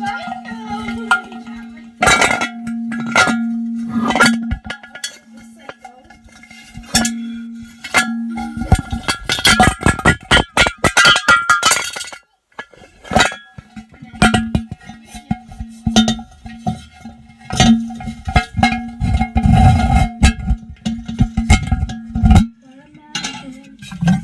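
Small hard objects clinking, knocking and rattling, with a dense burst of clattering about nine to twelve seconds in. A steady low hum runs underneath, breaks off during the clatter and comes back afterwards.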